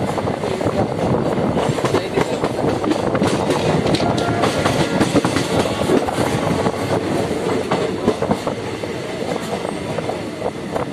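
Passenger train running, heard from inside the carriage at an open window: a steady rumble of wheels on rails with rapid clicking and rattling over the track, easing a little near the end.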